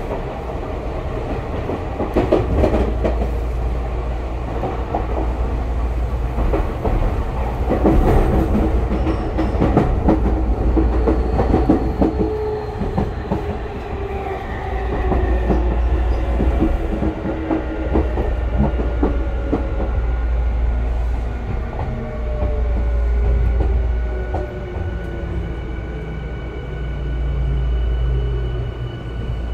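Tokyu 5000-series electric train heard from inside the car: the wheels clack and knock over rail joints, then the traction motors' whine falls steadily in pitch from about halfway through as the train slows, over a constant low rumble.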